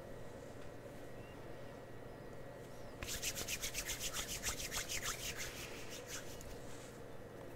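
Quick, scratchy rubbing strokes, about eight a second, starting about three seconds in and lasting about three seconds, over a faint steady background hum.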